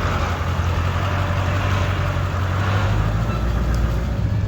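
Vehicle engine running steadily with a low hum under a wash of road and driving noise.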